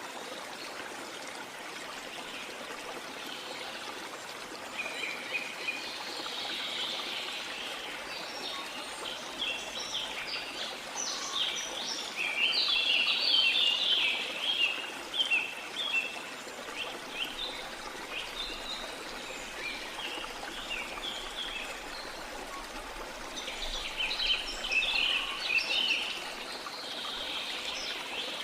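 Steady rush of a flowing river, with birds chirping over it in quick runs of short, high notes. The chirping is busiest in the middle and again near the end.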